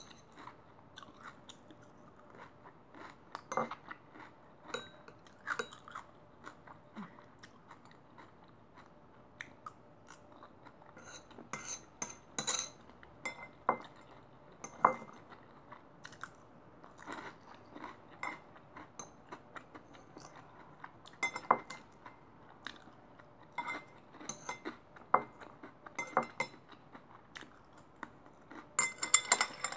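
Close-up chewing and crunching of a vegetable dish, with metal chopsticks clicking and scraping against a ceramic plate in short, scattered taps.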